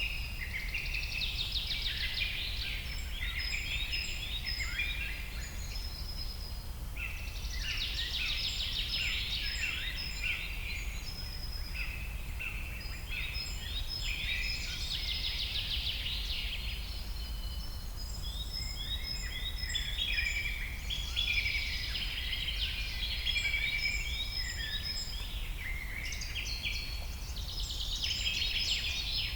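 A chorus of small birds chirping and trilling over one another in dense, high-pitched waves, over a steady low background hum.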